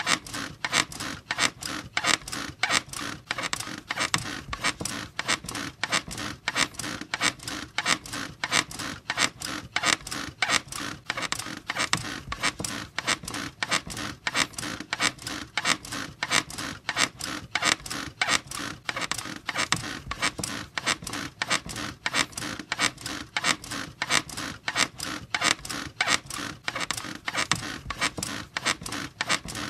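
Squeaky bed creaking over and over in a fast, steady rhythm of short squeaks, like a bed being rocked back and forth.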